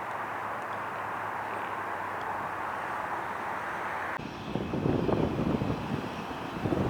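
Steady jet engine noise from a Southwest Boeing 737-800's CFM56-7B engines. About four seconds in it cuts off abruptly, and gusty wind buffets the microphone.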